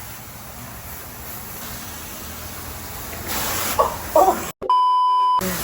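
A censor bleep: a single steady beep of just under a second near the end, cutting over the voice. Before it, steady background hiss with a short burst of hiss a little past three seconds.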